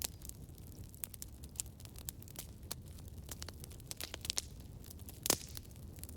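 Campfire crackling: a steady stream of small wood pops and snaps over a low rumble of the flames, with one louder pop about five seconds in.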